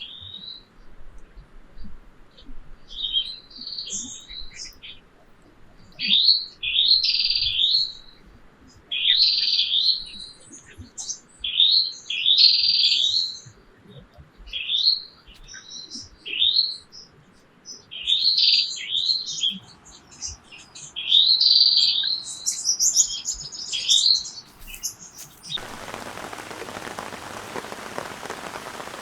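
Birds chirping in short repeated phrases, one every second or two. About 25 seconds in, the sound cuts abruptly to steady rain.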